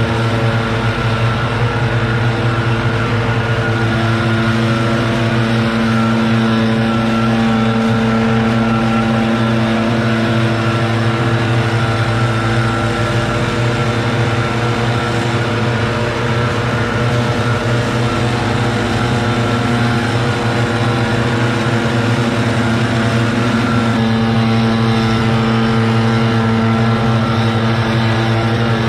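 Gasoline engine of leaf clean-up equipment running steadily at high speed, its pitch shifting slightly a couple of times.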